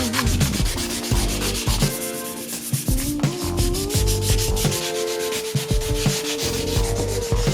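Wood being sanded, a dense, even rubbing, over background music with a bass line.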